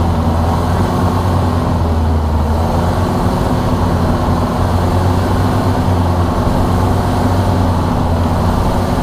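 Motorboat engine running steadily under way: a loud, even, low drone over a rushing noise.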